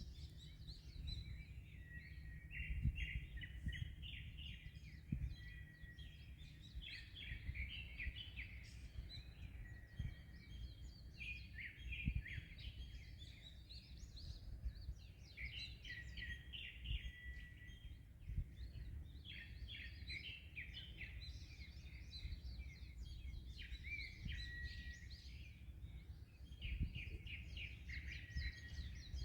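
Many small birds chirping and trilling without pause, several at once, over a steady low rumble of wind and surf with occasional gusts buffeting the microphone.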